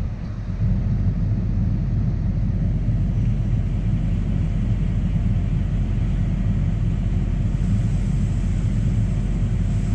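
Tractor engine running steadily under load while pulling a grain cart, an even low rumble.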